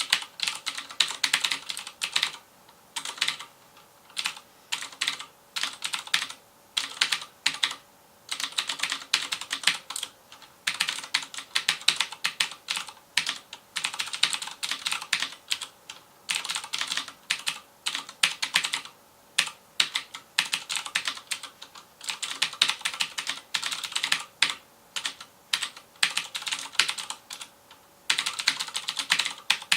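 Fast typing on a FILCO Majestouch Convertible 2 mechanical keyboard with Cherry MX Blue switches: the switches click on each press, and the keys clatter in rapid runs of many strokes a second. Short pauses break the runs every second or two.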